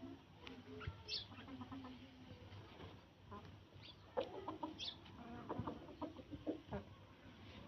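Domestic fowl clucking and calling in short, scattered notes, busiest in the second half, with a few brief high chirps among them.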